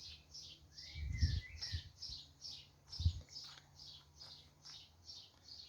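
A small bird chirping over and over, about three short high, falling chirps a second, with a brief warbling whistle about a second in. Two dull low thumps come near the start and about three seconds in.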